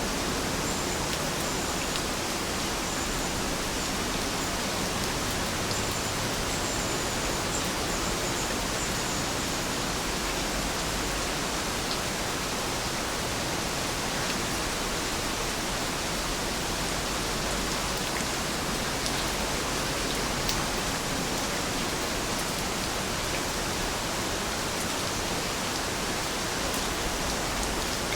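Steady rain falling: an even hiss with a few single sharp drop taps.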